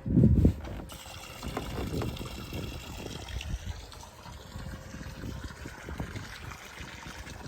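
Liquid pouring into a small camp-stove pot, a steady trickling hiss after a loud low thump at the start.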